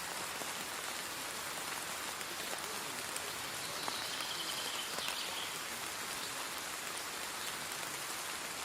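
Steady rain falling, an even hiss with many small drop ticks. A faint high-pitched sound lasts about a second, around four seconds in.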